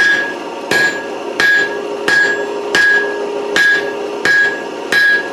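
Rounding hammer striking orange-hot steel over a steel anvil's horn in a steady rhythm, about eight blows at roughly three every two seconds. Each blow rings briefly, as the anvil does.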